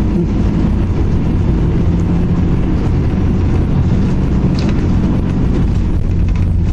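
A road vehicle's engine running steadily, a continuous low hum with no change in level.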